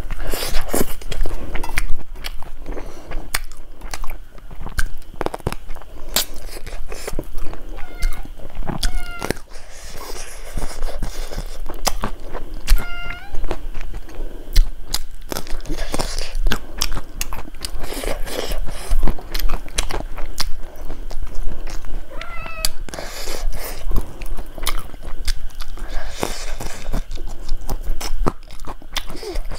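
Close-miked wet chewing and lip-smacking of rice and curry eaten by hand, full of sharp mouth clicks. A few short high squeaks come through in between.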